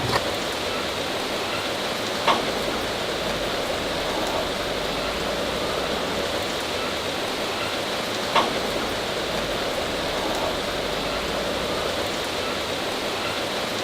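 Steady rain-like hiss, with a few sharp cracks standing out: one at the start, one about two seconds in and one about eight seconds in.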